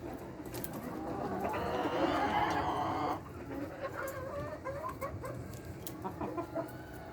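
Flock of layer hens clucking, with a louder burst of many overlapping calls about two seconds in, then scattered single clucks.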